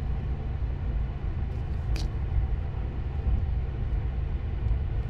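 Steady low rumble of a car being driven, heard from inside the moving vehicle, with one faint click about two seconds in.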